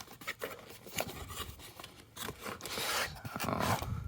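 Cardboard packaging of a 6-inch action figure being handled and opened: scattered clicks and scraping of cardboard, with a longer, louder rubbing scrape from about two and a half seconds in.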